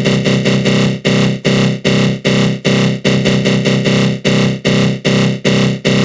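Synthesized attack-growl sound effect from the GMS synth in FL Studio Mobile, run through a flanger: a loud, dense, low growling tone that pulses about two and a half times a second.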